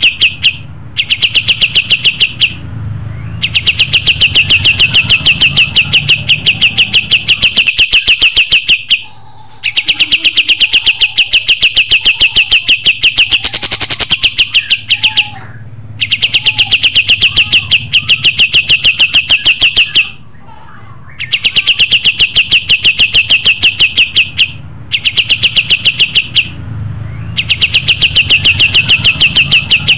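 Kapas tembak songbird singing: long phrases of rapid, evenly spaced loud chirps, broken by short pauses every few seconds.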